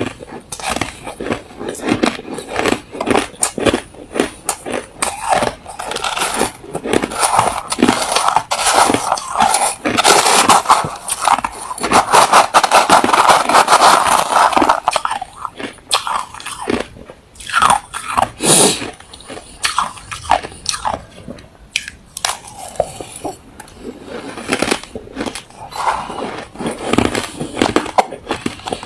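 Someone biting and chewing hard refrozen crushed ice close to the microphone: rapid, irregular crunches, densest and loudest in the middle, with brief pauses between bites.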